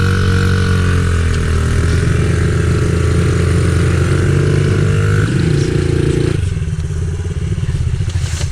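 Pit bike engine running hard, its pitch rising and falling with the throttle. About six seconds in it drops back to a lower, slower running.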